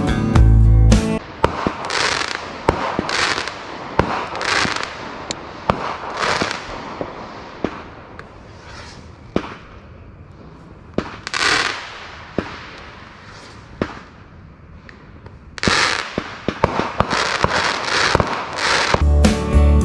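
Fireworks: sharp bangs and crackling bursts, scattered at first and coming thick and fast for a few seconds near the end. Guitar music plays briefly at the start and comes back at the end.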